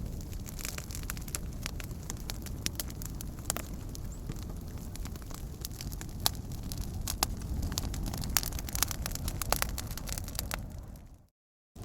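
Wood fire crackling, with many sharp pops scattered over a low, steady rumble. Near the end the sound fades out into a moment of silence.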